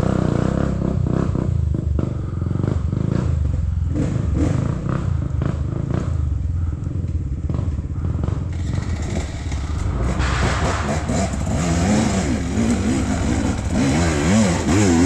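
Off-road trail motorcycle engines running. About ten seconds in, an engine starts revving up and down again and again.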